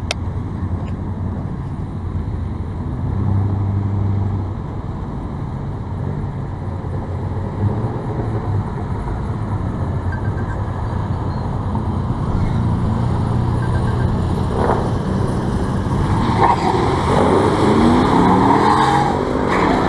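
Pickup truck V8 engines at a drag race: a turbocharged 5.2-litre Dodge Ram running a quarter-mile pass against a 6.2-litre RST pickup. The engine drone grows gradually louder, with one engine held at a steady pitch about three seconds in and rising revs through the gears near the end.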